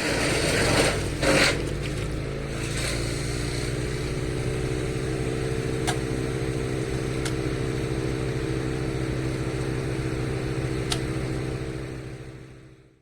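A motor engine running steadily with an even, pitched hum, fading out near the end, with a few faint clicks.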